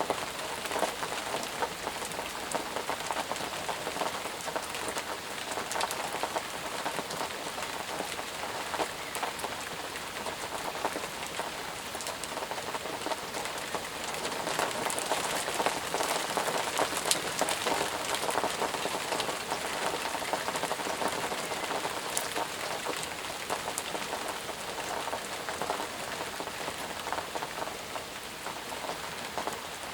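Steady, heavy rain falling, a dense hiss of countless drops with individual drops pattering on surfaces.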